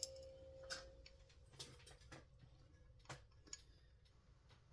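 Faint, scattered light clicks of small metal parts being handled on a chainsaw's recoil starter, about five in all, with a faint ringing tone dying away in the first second.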